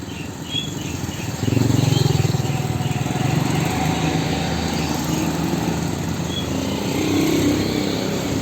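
Heavy vehicle's engine running close by, with a low, rough rumble that turns louder about a second and a half in and stays loud.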